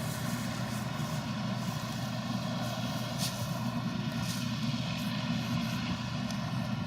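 Heavy farm machine's engine running steadily at a constant pitch, a continuous drone with a few faint ticks over it.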